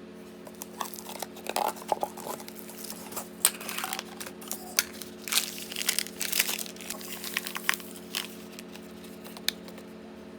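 Plastic snack wrapper crinkling and tearing as it is opened and handled, in a run of sharp crackles, over a steady low hum.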